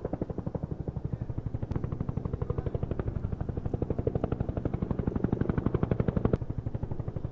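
Helicopter rotor blades beating in a rapid, even throb, the low-flying chopper approaching to land; the helicopter shown is a Bell UH-1 Huey.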